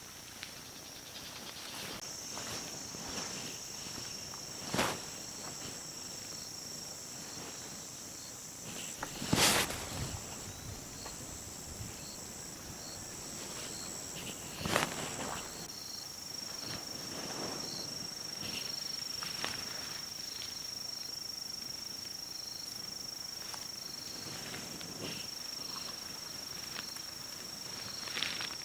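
Insects, crickets among them, trilling steadily in high continuous tones with a quick pulsing chirp underneath. Three sharp knocks fall about five, nine and fifteen seconds in; the middle one is the loudest.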